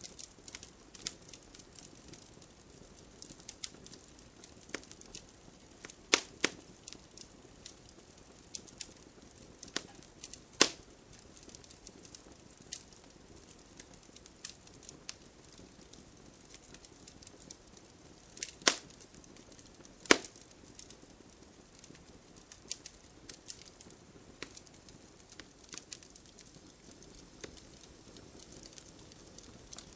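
Wood bonfire crackling, with irregular sharp pops, a few much louder than the rest, over a faint steady hiss of rain.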